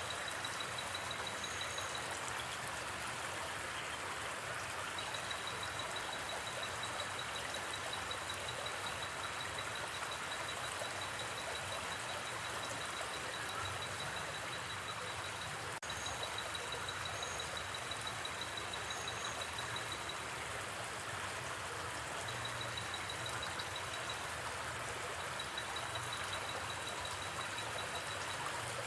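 Steady rush of a flowing river, with an insect's high, rapid trill starting and stopping in long stretches and a few short high chirps. A single sharp click sounds about sixteen seconds in.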